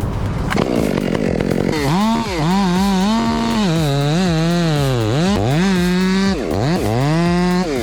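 Two-stroke chainsaw engine revving up and down repeatedly, its pitch climbing to a high whine and dropping back several times from about two seconds in.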